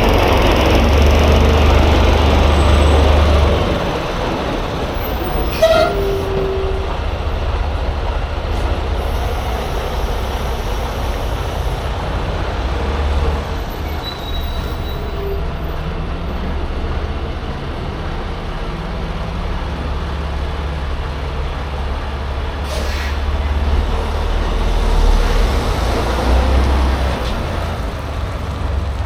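Semi-truck's diesel engine running with a steady low rumble, heard from inside the cab as the truck pulls out; it is loudest for the first few seconds, and a brief falling squeal comes about six seconds in.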